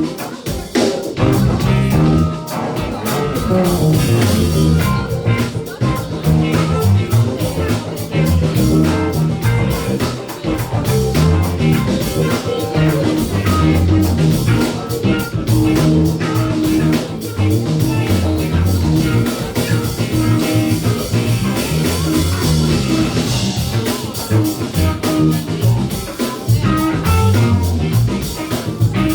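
A band playing a rock-soul groove with drum kit, bass and guitar, loud and steady throughout.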